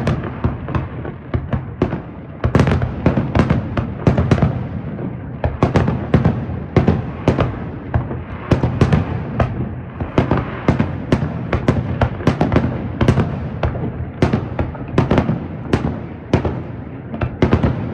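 Fireworks display: aerial shells bursting in rapid succession, sharp bangs several times a second over a continuous low rumble.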